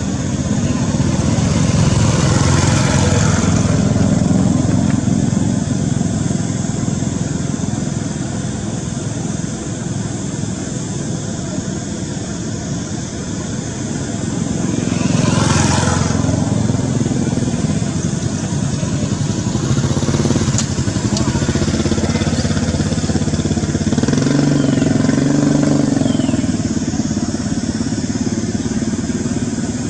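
Road traffic: motor vehicles running past, with three louder pass-bys swelling up and fading away.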